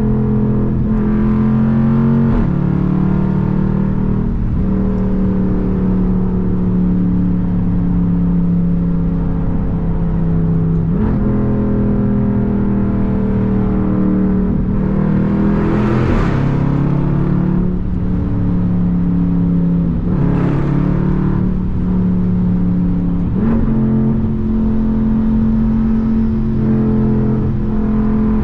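Straight-piped 6.4-litre HEMI V8 exhaust of an SRT Jeep Grand Cherokee, heard from the driver's seat while it cruises in traffic with a deep steady note. The pitch jumps up sharply three times and then sinks slowly as the Jeep rolls on. Two short hissing swells come through around two-thirds of the way in.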